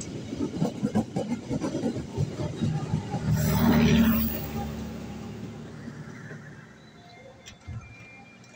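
Argo Parahyangan express passenger cars passing through at speed without stopping, wheels clacking rapidly over the rail joints. About three and a half seconds in, a loud rush of air comes as the last car clears, and then the rumble fades away.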